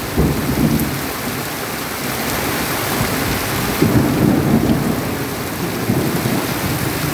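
Heavy tropical downpour hissing steadily on a road and the foliage beside it, with low rumbles swelling in and out a few times.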